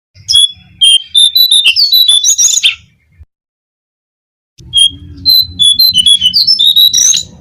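Recorded song of the cingcoang coklat (jongkangan), played as a bird lure. It comes as two phrases of rapid high chirping notes, each a little under three seconds long, with a pause of about two seconds between them and a low hum under the notes.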